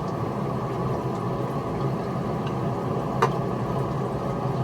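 A steady mechanical hum, with one light click about three seconds in.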